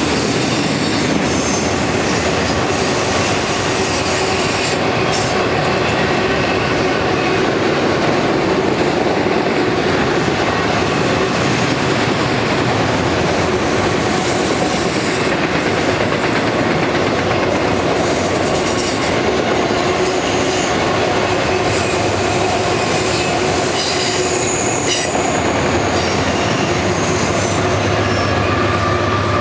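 Auto-rack freight cars rolling steadily past on steel wheels, with squealing tones from the wheels on the curve. Near the end a diesel locomotive at the rear of the train adds a low engine rumble.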